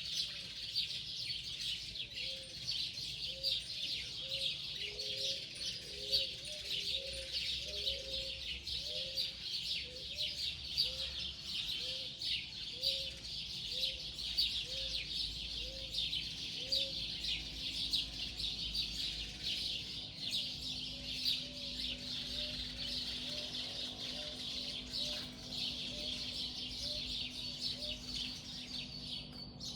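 Many birds chirping and singing together in a dense morning chorus. Under it, a low short call repeats evenly about every three quarters of a second through the first half, then again more faintly and faster later on.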